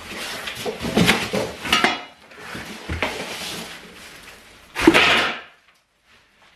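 Handling of unpacked flat-pack furniture parts and packaging: irregular rustling and clattering of hard pieces, then one loud knock about five seconds in, after which it falls quiet.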